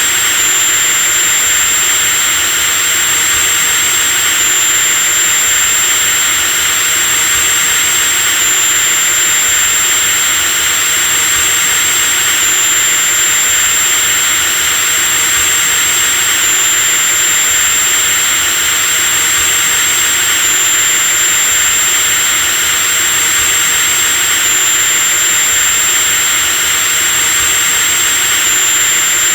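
Electric drill motor running continuously at steady speed: a high, even whine over a hiss, with a slight repeating step in the pitch about every four seconds.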